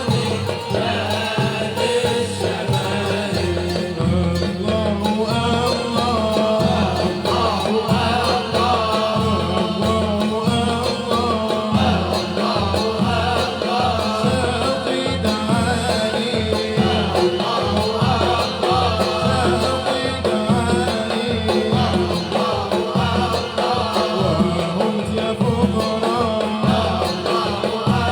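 Malouf ensemble music: group singing over a steady, dense drum rhythm.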